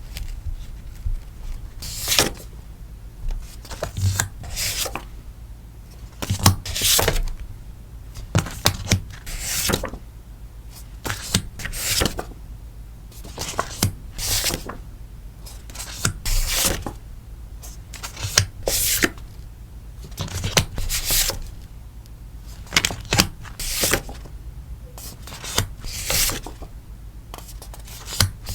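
Plastic and paper packaging crinkling and rustling as stickers are handled and wrapped for an order, in short strokes every second or two.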